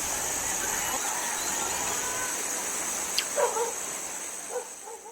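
Steady high hiss of outdoor ambience, with a sharp click about three seconds in followed by a few short, low animal calls; the sound fades out at the end.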